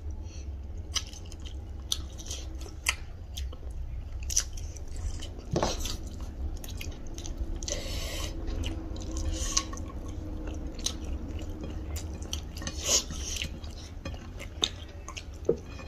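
Close-miked eating sounds: chewing, lip smacks and scattered sharp little clicks as rice and chicken curry are eaten by hand. A steady low hum lies underneath.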